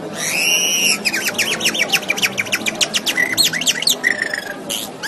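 Bird-like whistled calls: one long arching note, then a fast run of sharp chirps at about eight a second, ending in a short trill and a quick rising whistle.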